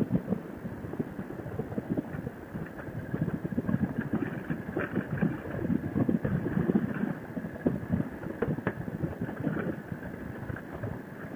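Harley-Davidson Sportster's V-twin engine running under way, mixed with choppy wind buffeting on the microphone.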